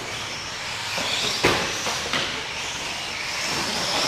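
Radio-controlled 4x4 short course trucks racing: a steady whirring hiss of their motors and tyres on the track, with one sharp knock about a second and a half in and a lighter one shortly after.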